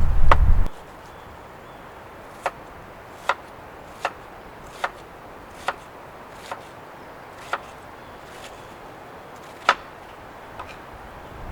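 Chopping: single sharp knocks of a blade striking wood, about one every 0.8 s, spacing out near the end. A heavy low rumble with faster knocks cuts off abruptly just under a second in.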